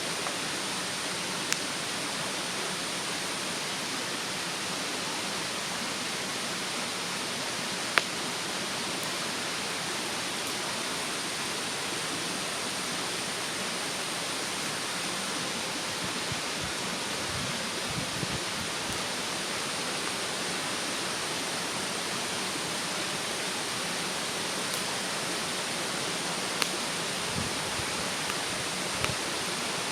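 Steady rush of a mountain stream, with a wood fire crackling now and then: a few scattered sharp pops, the loudest about a quarter of the way in.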